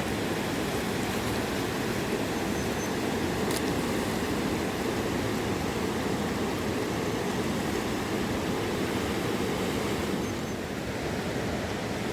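Mountain river rushing steadily, a continuous water noise without breaks.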